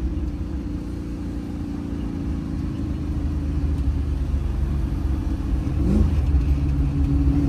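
1965 Mustang's 347 stroker small-block Ford V8 running at low, steady revs with a deep rumble, picking up slightly about six seconds in.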